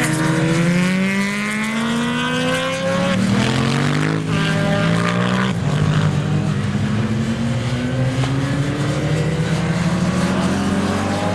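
A vehicle engine accelerating hard, its pitch rising, dropping back at a gear change about three seconds in, rising again and then holding steady at high revs.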